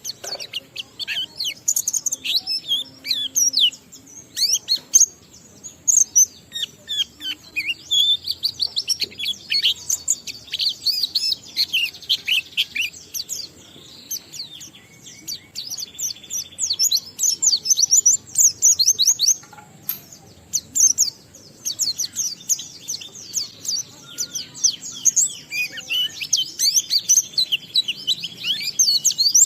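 White-eye (pleci) singing a long, rapid run of high chirps and twitters, thinning briefly about halfway. This is the sustained 'ngalas' song, strung with varied 'isian' phrases, that keepers play to set other white-eyes singing.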